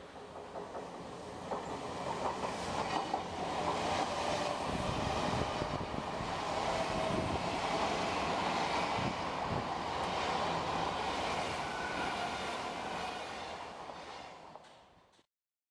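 Odakyu Line train passing over a level crossing, wheels clattering on the rails. It builds over the first few seconds, holds steady, fades, then cuts off abruptly about fifteen seconds in.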